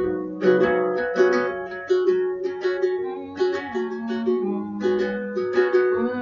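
Chords strummed in a steady rhythm on a small plucked string instrument, changing chord partway through, as an instrumental interlude between verses of a song.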